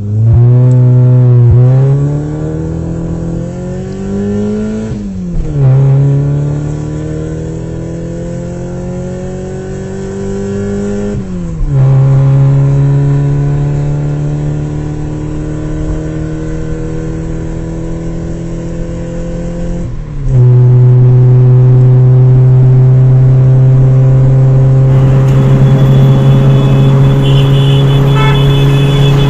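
Car engine accelerating up through the gears: its pitch climbs steadily and drops sharply at each of four shifts, the last about two-thirds of the way in, then holds a loud, nearly steady cruising note.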